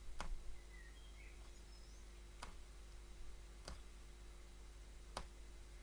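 Punch-needle tool stabbing through stretched fabric to set loops of thread, giving faint separate clicks about every second and a half, four in all.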